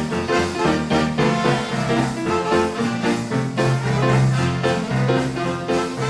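Big band playing 1930s-style swing dance music, with brass, piano and a steady beat.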